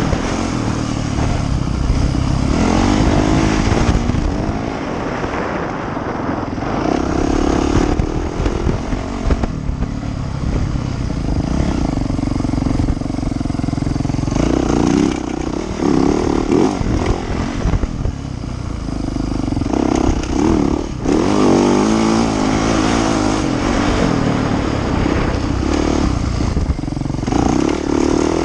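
Yamaha YZ450F four-stroke single-cylinder dirt bike engine being ridden hard, its pitch rising and falling over and over with throttle and gear changes, heard loud and close from a camera mounted on the rider or bike.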